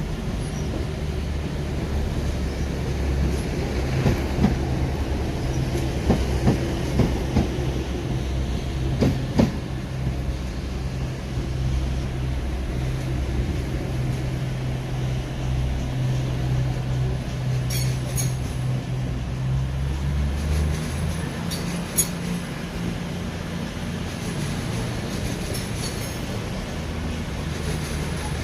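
A train in the station with a steady low running hum. A run of clanks and knocks comes between about four and ten seconds in, and a few sharp high clicks come later, when the hum shifts in pitch.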